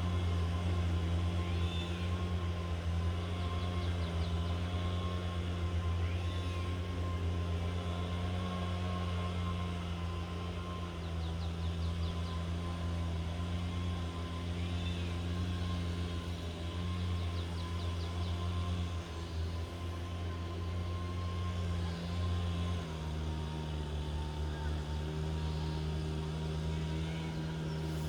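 Boat engine running at a steady speed, a low drone with a steady whine above it; its note shifts slightly lower about three-quarters of the way through.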